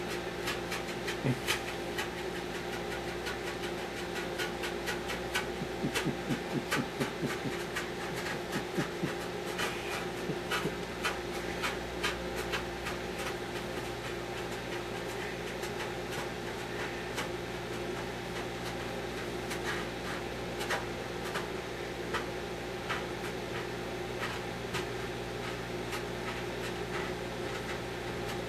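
Microwave oven running with a steady hum, while a bar of Ivory soap inside crackles and ticks irregularly as it puffs up. The crackling is densest in the first half, then thins out.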